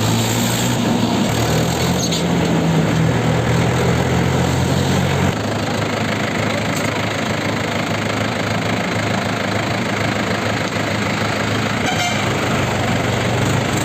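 Diesel tractor engine running while driving on a road, with a steady low engine hum over road and wind noise; the hum drops in level suddenly about five seconds in.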